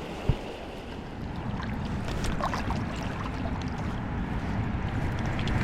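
Flowing river water with wind buffeting the microphone, a low rumble that grows louder about a second and a half in. A short thump comes just after the start, and a few light ticks follow later.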